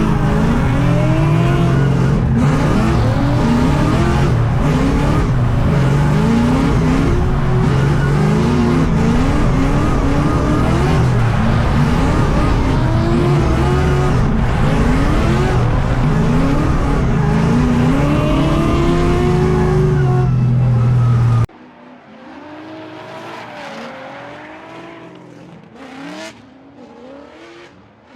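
Drift car engines revving hard up and down over and over, with tyre noise. About 21 seconds in, the sound cuts suddenly to a much quieter, more distant rise and fall of revving engines.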